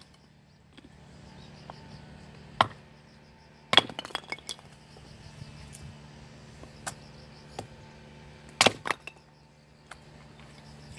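Scattered sharp knocks and clinks: a quick cluster about four seconds in, and a louder double knock near the end, over a low steady hum.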